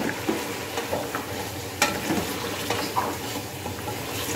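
Mutton trotters sizzling as they fry in oil and masala in a pressure cooker pot, stirred with a wooden spoon that scrapes and knocks against the pot. There are a few knocks, the loudest about two seconds in.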